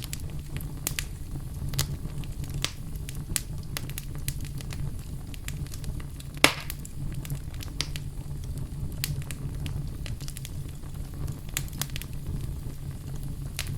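Fire in a fireplace crackling, with many small irregular pops over a steady low rumble. One louder pop comes about six and a half seconds in.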